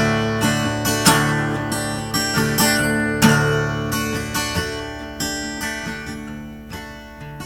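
Acoustic guitar playing an instrumental passage, notes and chords plucked and strummed about twice a second, slowly getting quieter.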